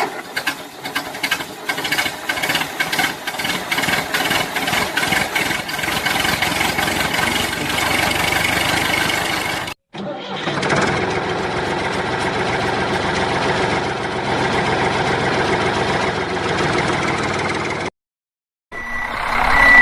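An engine sound: a chugging that quickens like an engine being started, then steady running. It cuts out abruptly about halfway through and again near the end.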